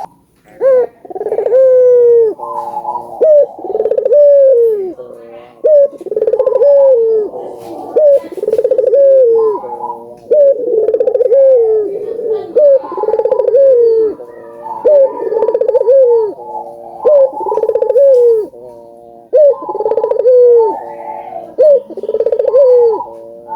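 Barbary dove (burung puter) cooing over and over, roughly one coo a second, each a short low note that swells and then falls away, with brief pauses between phrases.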